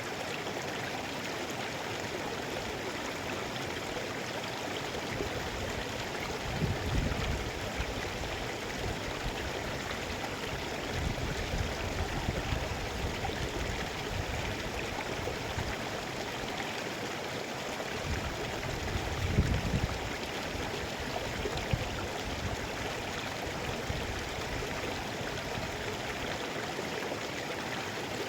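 Mountain river rushing steadily over rocks, a continuous even wash of water, with a few deeper low swells about seven, twelve and nineteen seconds in.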